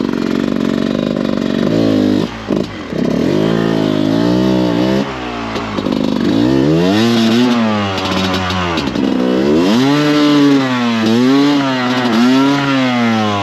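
Dirt bike engine revved in repeated bursts, its pitch climbing and dropping about half a dozen times, as the throttle is worked to drive the bike on through slippery mud.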